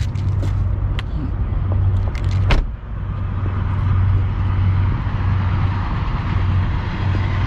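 Mercedes-AMG S63's 4.0-litre twin-turbo V8 idling steadily with a low, even rumble. A few sharp clicks and knocks come about one second in and again around two and a half seconds in.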